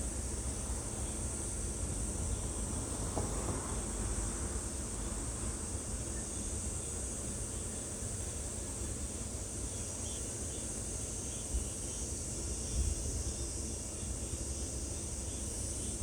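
A steady high-pitched insect chorus, with a low rumble underneath and a few faint short chirps about ten seconds in.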